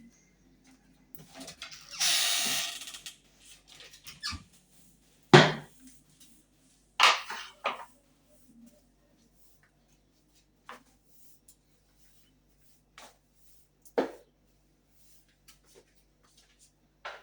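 Floor mopping by hand: a second-long rush of noise, then scattered knocks and clunks of the mop and bucket, the loudest about five seconds in.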